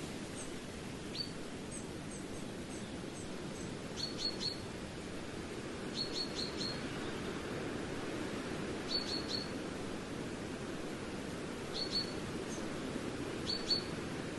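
Small bird chirping in quick bursts of three or four short high notes, repeated every few seconds, over a steady low rushing noise.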